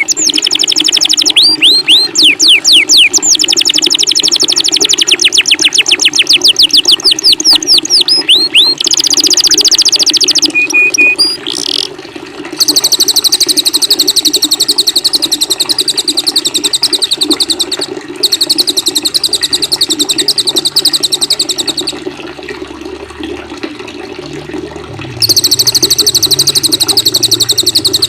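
Songbirds from a cililin, canary and kapas tembak training mix. For the first several seconds they give quick, repeated down-slurred high whistles, then a brief buzz, then long, fast, dry high trills that pause for a few seconds and start again. A steady sound of running water plays underneath.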